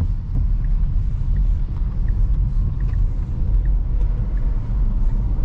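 Low steady rumble inside the cabin of a 2022 Tesla Model X, an electric car with no engine note, moving through rain, with a few faint light ticks scattered through it.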